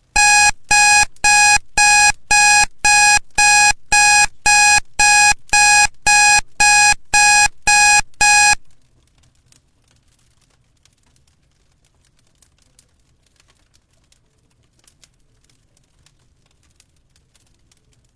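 Electronic timer alarm beeping loudly, about two short steady high beeps a second, some sixteen in all, stopping about eight and a half seconds in. Faint light tapping continues after it.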